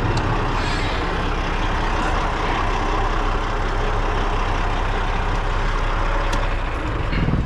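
Semi-truck cab air-conditioning blower running steadily at speed, over the diesel engine idling.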